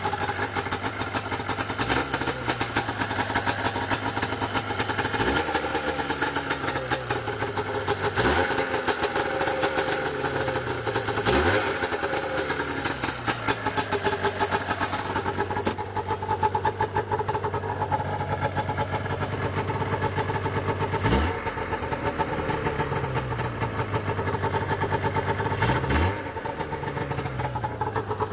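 Arctic Cat Cougar 550 snowmobile's two-stroke engine, freshly rebuilt with a new cylinder and pistons, idling steadily with about five quick throttle blips, each a rise in revs that falls back to idle.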